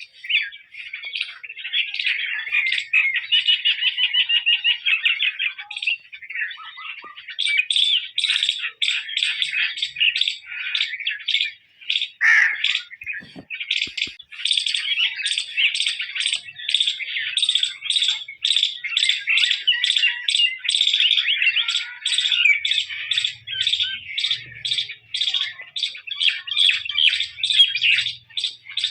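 A songbird singing close by: a long, continuous chatter of quick chirps and warbles, with short breaks now and then.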